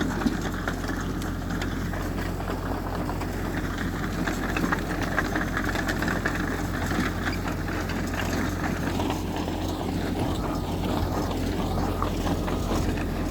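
Heavy earthmoving machine's diesel engine running steadily, with a few scattered light knocks.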